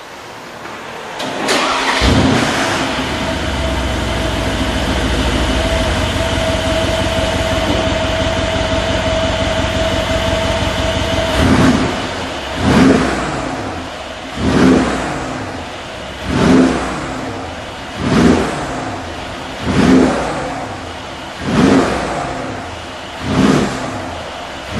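Mercedes G63 Brabus twin-turbo V8 through its tuned exhaust: the engine starts about a second and a half in and idles steadily. From about halfway it is revved in short blips, roughly one every two seconds.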